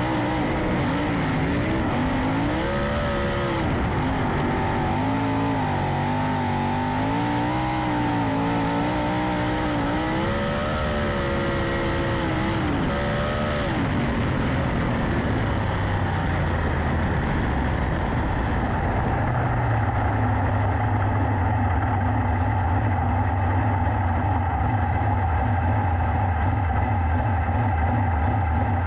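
Sprint car engines running on the dirt track, their pitch rising and falling in repeated swells as the cars lap. About two-thirds of the way in this gives way to a steady low engine drone.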